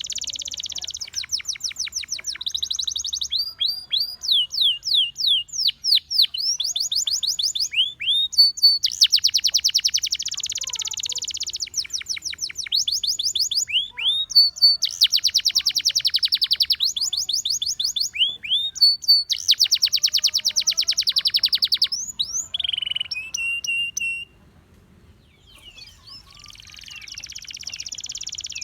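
Gloster canary singing: long phrases of quickly repeated upward-sweeping notes and fast buzzy rolls, broken by a short lull about three-quarters of the way through before the song picks up again.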